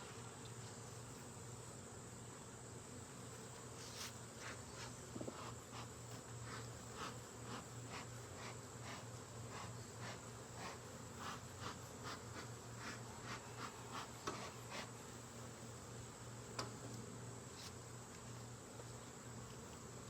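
Honeybees buzzing steadily around an open hive, with a run of short clicks and scrapes from about four to fifteen seconds in.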